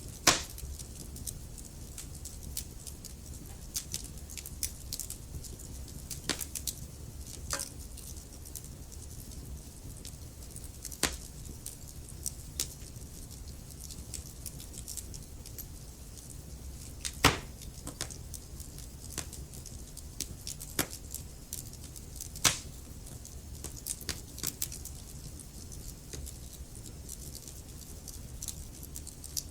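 Wood fire crackling in a fireplace: a steady low rumble with frequent small pops and ticks. A few louder snaps stand out, one near the start and others about 11, 17 and 22 seconds in.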